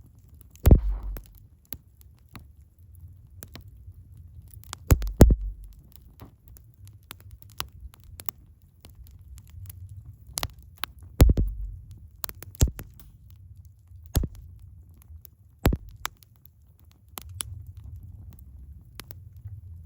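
Wood fire crackling in a Picogrill 398 stainless fire pit: scattered small clicks and several loud sharp pops over a low rumble. The rumble grows stronger near the end.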